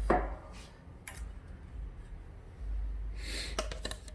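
A few light clicks and taps of hands handling small parts, with a short breath through the nose about three seconds in, over a low steady hum.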